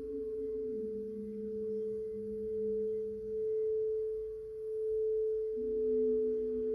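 Singing bowls ringing in a sustained drone: one steady tone is held throughout, while lower tones change pitch about a second in, fade out, and come back near the end. The loudness swells and ebbs slowly.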